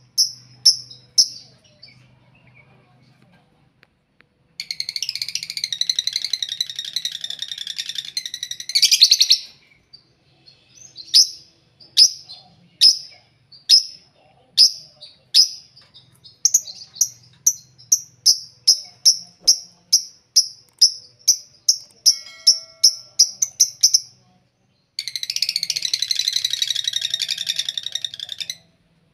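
Lovebirds calling: two long, rapid chattering trills (the long "ngekek"), each about four seconds, and between them a run of sharp, high chirps, first about one a second, then quickening to about two a second.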